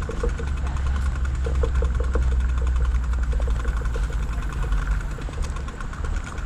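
Steady low rumble of wind and riding noise on a bike-mounted camera, with a row of faint short ticks in the first few seconds.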